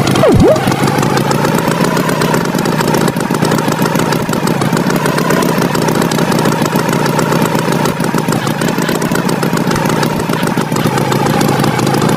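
Tractor engine sound effect running steadily, with a rough, wavering hum. About half a second in there is a quick swoop that drops in pitch and rises again.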